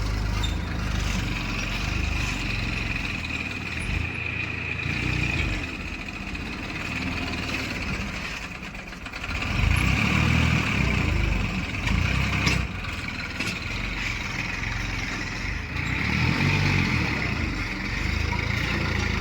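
Heavy diesel engine running, its level swelling and easing, with a dip about eight seconds in and a pick-up again a second or so later.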